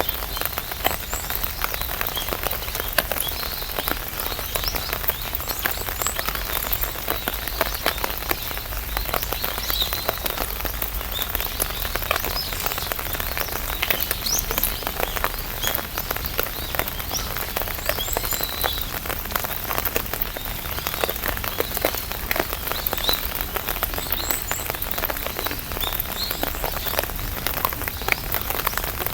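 Steady rain falling on an umbrella, a dense, even run of drop taps close overhead.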